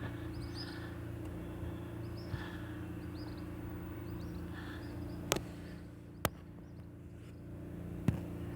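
A steady mechanical hum, like an engine or motor running. Small birds chirp through it, and there are three sharp clicks or knocks in the second half.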